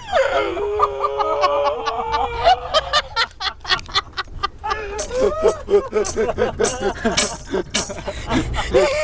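A voice making non-word sounds: a held, sliding note for about two seconds, then a quick run of sharp clicks, then choppy, chattering vocal sounds.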